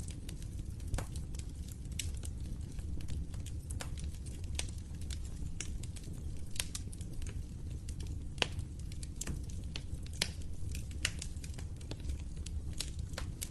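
Wood fire crackling in a fireplace: a steady low rumble of the flames with irregular sharp pops and snaps, a few each second.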